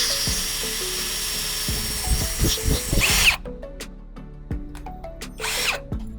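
A power tool runs with a steady high whine over background music, then cuts off suddenly about halfway through. After that only the music remains, with a few light clicks and a brief burst of noise near the end.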